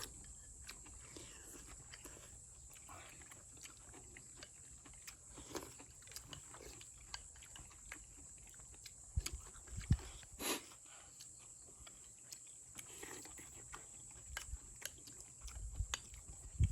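Faint sounds of people eating a stew at the table: chewing, with scattered small clicks and knocks of utensils and a few louder thumps about ten seconds in.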